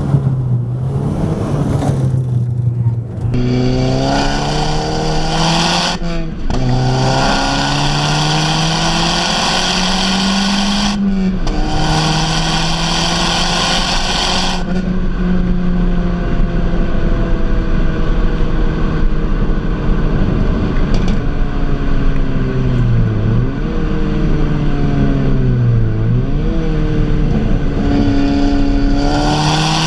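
Tuned 350 hp Audi S3 8P's turbocharged 2.0 TFSI four-cylinder heard from inside the car, accelerating hard with the revs climbing and dropping back at quick upshifts about four times in the first fifteen seconds. It then runs at a steady pace, with two brief lifts off the throttle, and pulls again near the end.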